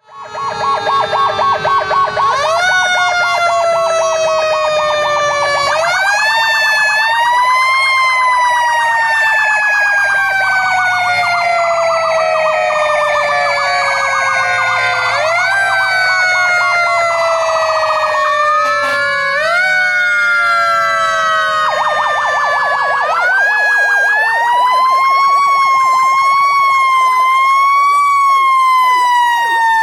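Several fire truck sirens sounding at once: overlapping wails that rise quickly and then fall slowly, over fast-pulsing electronic siren tones. Truck engines rumble underneath.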